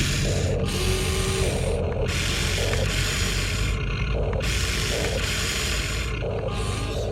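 Electric gear motors of a Huina 1593 RC toy excavator whirring in spells of one to two seconds, stopping and starting as the machine is worked, over a steady low hum.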